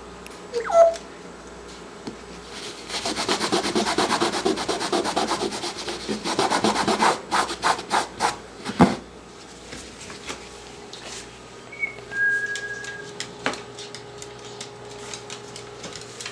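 Pet parrot at play: a short whistled call, then several seconds of rapid rough scraping and rubbing strokes, many a second, ending with a sharp click, and later a brief, steady whistled note.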